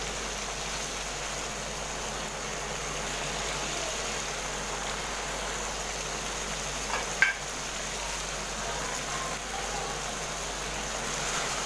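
Chicken pieces sizzling as they fry in oil in a pan, a steady hiss, with a single sharp knock about seven seconds in.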